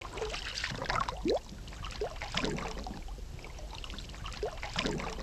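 Underwater ambience: steady muffled water noise and low rumble, with scattered gurgling bubble blips, several rising quickly in pitch.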